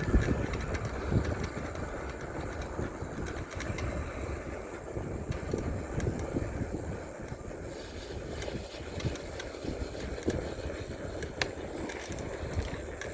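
Bicycle ride noise: wind rumbling on the microphone and tyres rolling on the road, with a few light clicks and rattles from the bike.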